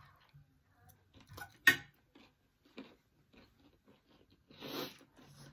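Close-miked chewing and crunching of chatpate (spicy puffed-rice mix) and fried pakodas, with scattered small crunches and one sharp crunch about one and a half seconds in. There is a short hiss near the end.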